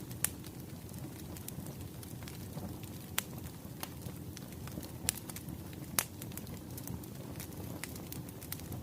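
Wood fire crackling: a steady low rumble of burning logs with scattered sharp pops, the loudest a moment after the start, about three seconds in, around five seconds and at six seconds.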